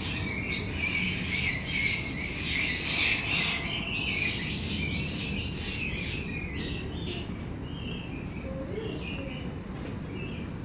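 Birds chirping in a rapid, dense series of short repeated calls that thin out after about six seconds, over a steady low background hum.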